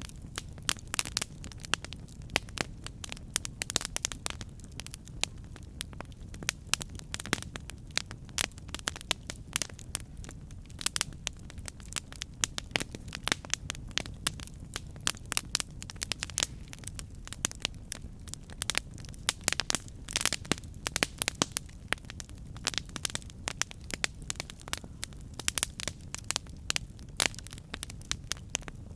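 Campfire burning, wood crackling and popping in quick irregular snaps over a steady low rumble of flames.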